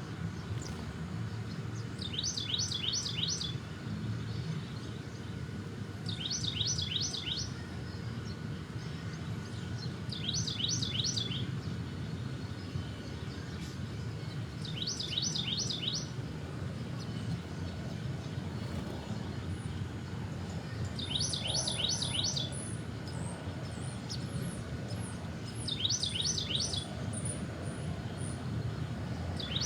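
A songbird repeating a short phrase of four or five quick, high, down-slurred notes about every four seconds, over a steady low rumble.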